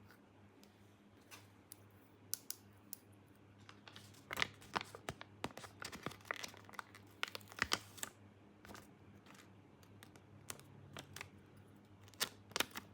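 Small plastic toy pieces and their packaging being handled: scattered light clicks, taps and crinkles, busiest in the middle and again near the end.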